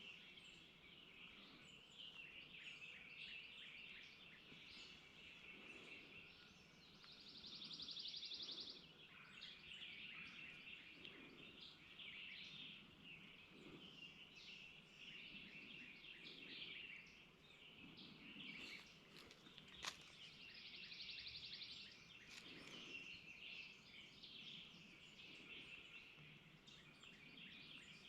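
Faint songbird chorus: many short high chirps, with two buzzy trills of about a second and a half each and a single sharp click about two-thirds of the way through.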